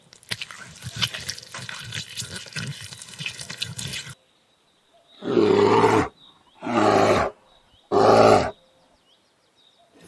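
Lion giving three short, loud roars about a second apart, after about four seconds of irregular crackling and clicking.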